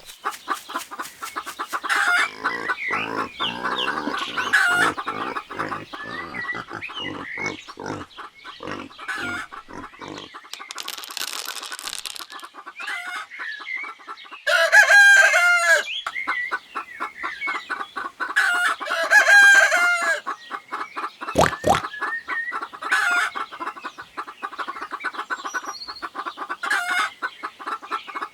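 Chickens clucking continuously, with a rooster crowing twice, about halfway through and again a few seconds later.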